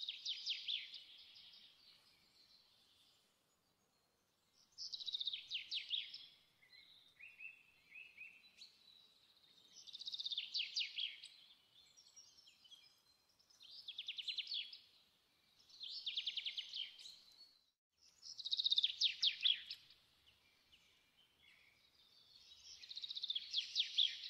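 A songbird singing: short phrases of fast, high trills, repeated every few seconds.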